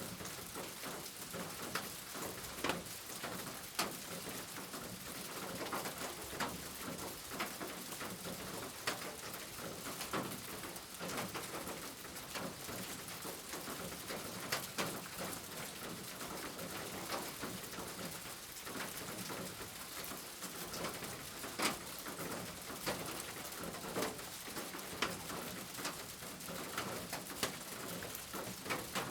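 Steady rain, with frequent single drops tapping sharply on a surface. A bird coos in the background.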